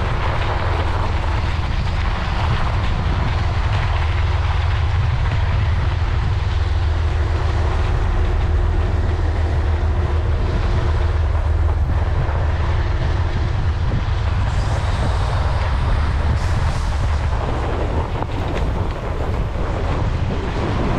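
Loud, steady low rumble of wind buffeting the microphone while cycling into a strong headwind.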